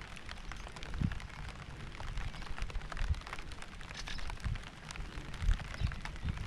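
Rain falling, a dense patter of many sharp drop ticks over a steady hiss, with irregular low rumbling thumps underneath.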